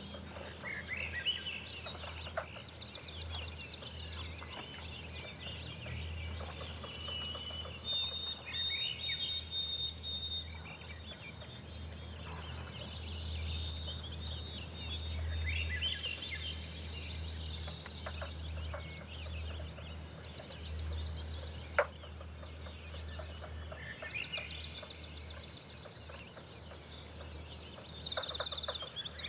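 Dawn chorus of several songbirds singing at once: repeated trills, short whistled phrases and a held high whistle, over a low steady rumble. One sharp click stands out about two-thirds of the way through.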